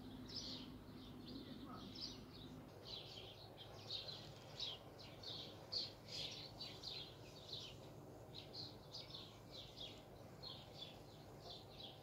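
Small birds chirping in the background, a continuous run of short, high chirps, several a second.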